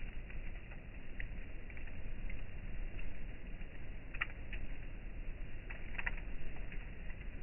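Campfire crackling: irregular sharp pops and snaps, a cluster of them about four seconds in and another about six seconds in, over a low steady rumble.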